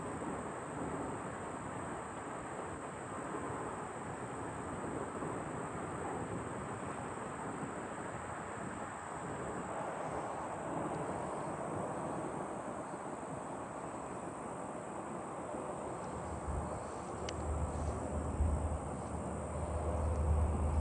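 Airplane overhead, a steady broad roar, with insects chirping steadily in the background; a deep low rumble swells in near the end.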